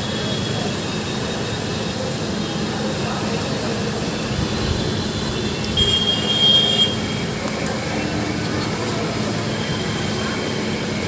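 Heavy monsoon rain falling steadily, an even hiss of downpour with no break. About six to seven seconds in, a brief high-pitched tone sounds over it.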